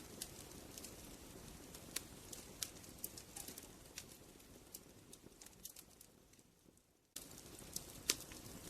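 Wood fire crackling, with scattered sharp pops over a low, rushing burn. About six seconds in it fades away to near silence, then cuts back in abruptly a second later.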